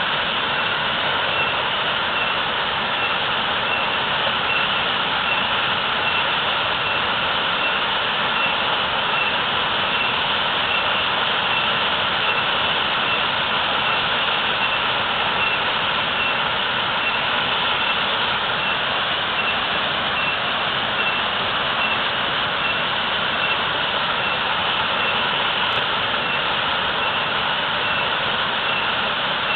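Waterfall pouring heavily: a steady, unbroken rush of falling water.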